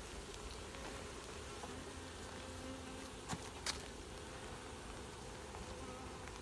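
Honeybees from a freshly installed package buzzing around the open hive: a steady, faint swarm hum, with two light clicks a little past halfway.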